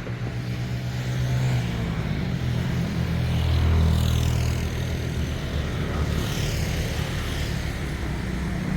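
Motor vehicle engine running with road noise, a low hum that swells to its loudest about four seconds in.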